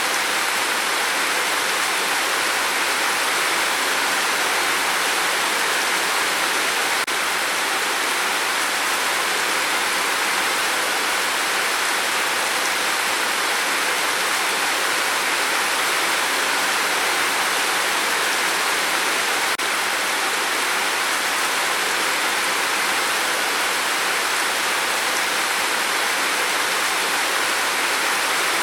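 Steady rain: a dense, even hiss with no separate drops standing out.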